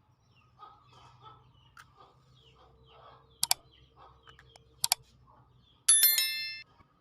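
Faint bird calls, with two sharp double clicks about three and a half and five seconds in, then a bright bell-like ding near the end that rings briefly and fades.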